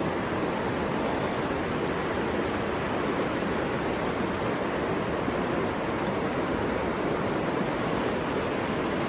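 River water running, a steady even rushing.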